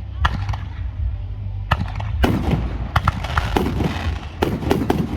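Aerial fireworks bursting: a string of sharp bangs with crackling between them, thickest about halfway through, over a steady low rumble.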